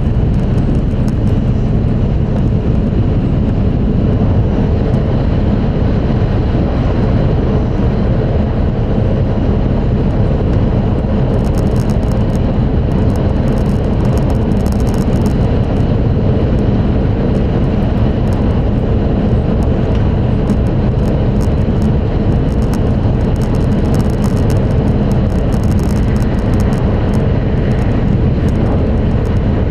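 Steady running noise of an E5 series Shinkansen at speed, heard inside a passenger car: an even, dense rumble of wheels, track and air. Faint high crackling comes and goes from about eleven seconds in.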